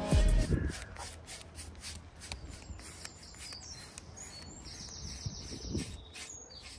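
Small birds chirping and calling, short high notes scattered throughout, one quick repeated call about five seconds in. A brief low thud at the very start.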